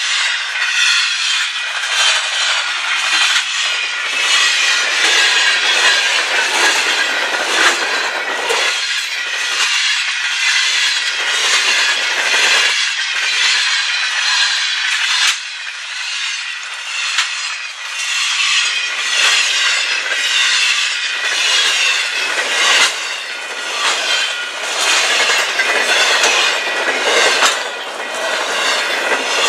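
Cars of a fast mixed freight train, autoracks and tank cars, rolling past at speed: a loud, steady rush of steel wheels on rail with rapid clickety-clack from the wheels and trucks.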